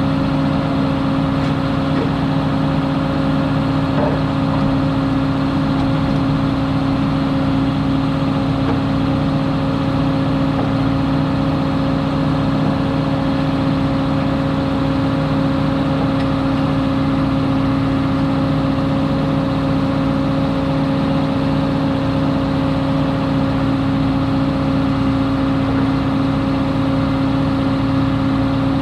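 Large diesel farm engine running at a steady speed, a constant drone with a low hum that does not change.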